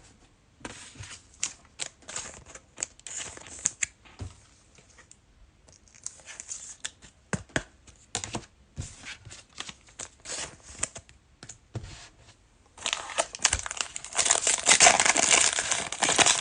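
Trading cards being handled and shuffled, with light clicks and flicks, then, about thirteen seconds in, a loud crinkling tear of a card pack's wrapper being ripped open, lasting a few seconds.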